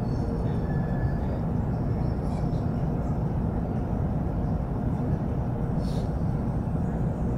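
Steady low rumble inside an N700-series Shinkansen car as the train rolls slowly along the platform, with a few faint ticks.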